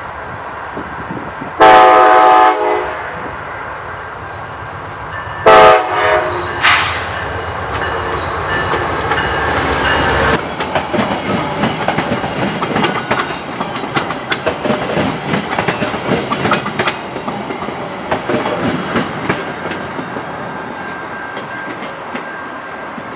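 A VIA Rail GE Genesis P42DC diesel locomotive sounds its multi-chime air horn at full volume: one blast of about a second, then two short blasts. The locomotive then rumbles past, and its passenger cars clatter rapidly over the rail joints, fading toward the end.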